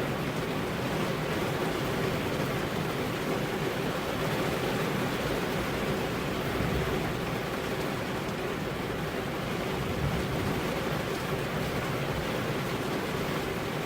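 Rain falling on a car's window glass, a steady even hiss.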